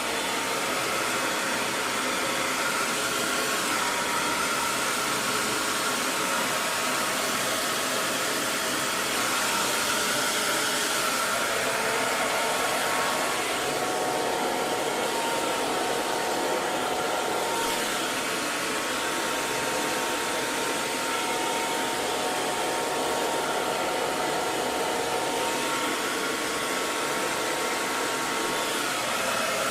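Hair dryer running continuously: a steady blowing rush with a faint motor whine.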